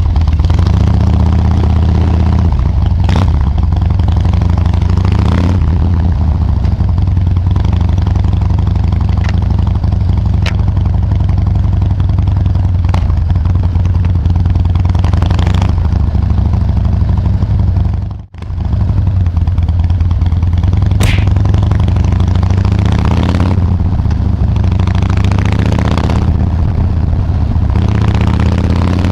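Harley-Davidson Dyna Wide Glide's V-twin engine running steadily through its exhaust, with a brief drop-out about two thirds of the way through.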